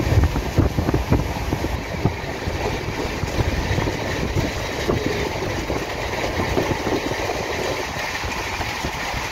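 Passenger train running along the track, heard from on board: a continuous rumble and rattle of wheels on rails with irregular low knocks, heavier in the first second or so.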